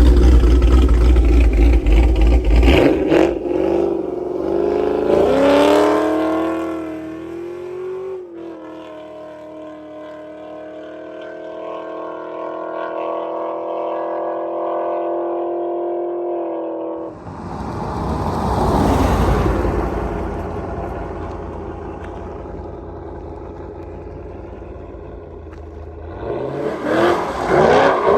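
Cammed 5.3 V8 in a GMC Sierra, breathing through long-tube headers and an equal-length exhaust, revving and accelerating with its pitch rising, then holding a steady drone. After an abrupt change, the exhaust note swells and fades, and it revs hard again near the end.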